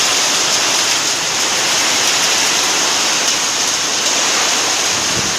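Heavy summer-storm downpour with hail pelting down, a dense, steady hiss.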